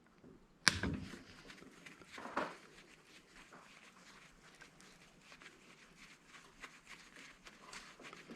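Parts and tools being handled at a workbench while taking apart an angle grinder: a sharp knock about a second in, a softer knock a second and a half later, then faint light clicks.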